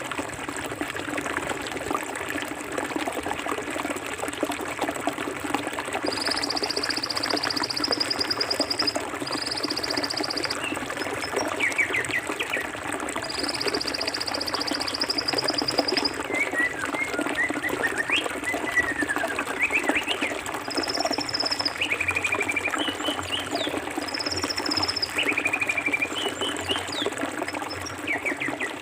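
Forest river flowing steadily. Bird chirps and whistles come in from the middle on, and several high, rapid trills are heard.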